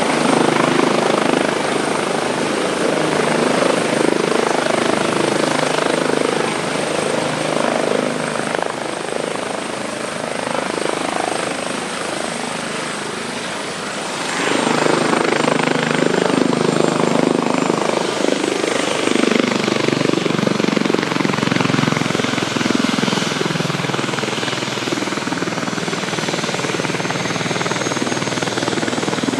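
Airbus Helicopters H145 D2 running: its rotors and twin turbine engines give a loud, steady beating noise over a high thin whine. The whine steps down slightly in pitch about halfway through, as the overall sound dips and then swells again.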